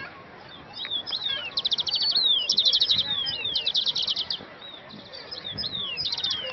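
Songbirds singing: rapid high trills of short repeated notes alternating and overlapping with downward-slurred whistles, busiest in the middle.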